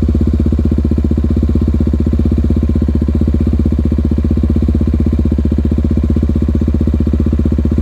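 Single-cylinder four-stroke dirt bike engine running at a steady, unchanging pitch, its firing pulses loud and regular.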